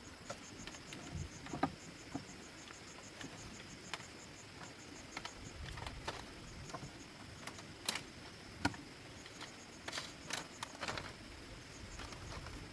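An insect trilling in a rapid, even pulse of high notes. It stops about five seconds in and starts again near the end, over scattered sharp clicks and knocks.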